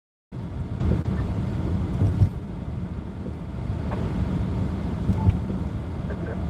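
Car road noise from inside a moving car driving through snow: a steady low rumble with a few short knocks, coming in just after a brief moment of dead silence.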